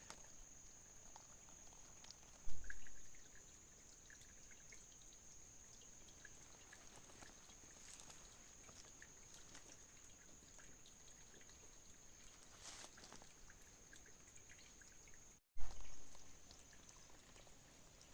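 Faint trickling water with scattered small clicks, and two brief dull thumps: one about two and a half seconds in, the other near the end just after a short break in the sound.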